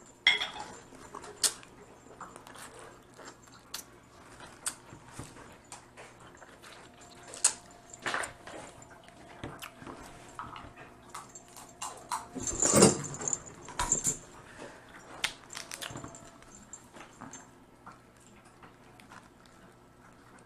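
Eating Dungeness crab: scattered cracks and clicks of crab shell being broken and picked at, mixed with chewing, with a louder run of cracking about 13 seconds in.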